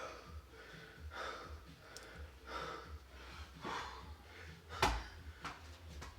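Heavy, rhythmic breathing of an athlete mid-workout, a hard breath about every second and a quarter. There is a sharp knock about five seconds in.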